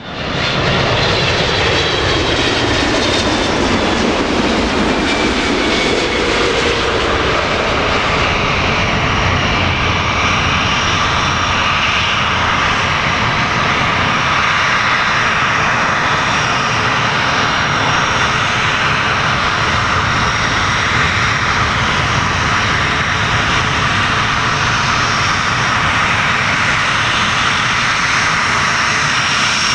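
Twin jet engines of an All Nippon Airways Boeing 777-200 running loud and steady, with a whine that falls in pitch over the first several seconds.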